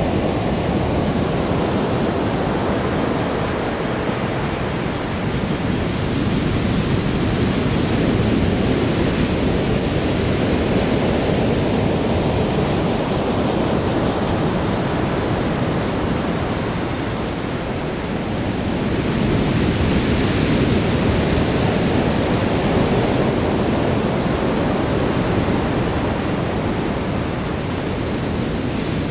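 Heavy sea surf left by a passing typhoon: a continuous deep rush of breaking waves that swells and eases slowly, rising again about two-thirds of the way through.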